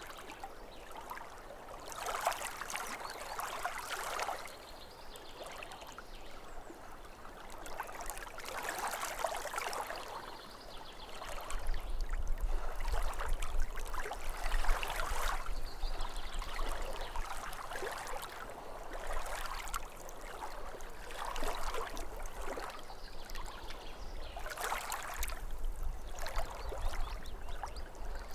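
Small waves lapping at a lake shore, splashing in soft swells every two to three seconds. A low rumble joins underneath about eleven seconds in and again near the end.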